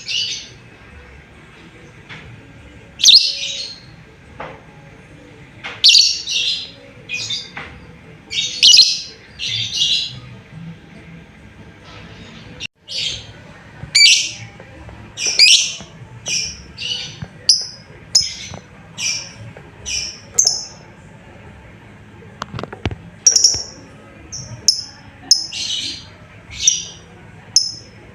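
Lovebird calling: a string of short, high chirping calls, a few at first, then coming quicker and in clusters through the second half. It is a lure call meant to set other lovebirds calling back.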